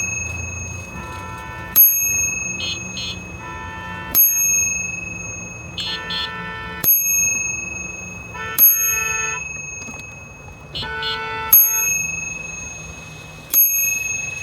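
Bicycle bell rung about six times, every two seconds or so, each ring fading out, with short honks of a bike horn in between. This is the rider's warning to cars backing out across a parking lot.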